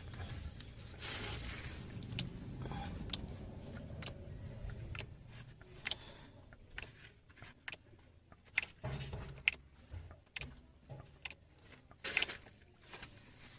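Hands and tools working on a vehicle during a gear oil change: scattered clicks, taps and scrapes over a low steady rumble that fades after about five seconds, with a louder scrape near the end.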